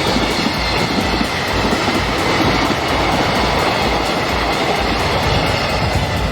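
Freight train passing close by, its wagons rolling along the rails in a steady, dense rumble. Strong wind buffets the microphone, adding a low, uneven rumble underneath.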